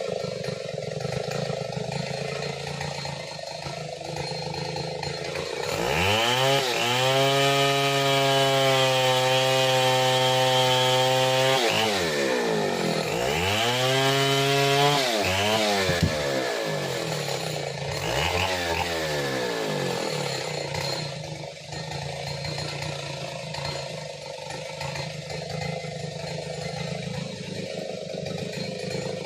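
Stihl 070 two-stroke chainsaw idling, then revved to full throttle about six seconds in and held there for about five seconds. It drops back, is revved up twice more in shorter bursts, and returns to idle.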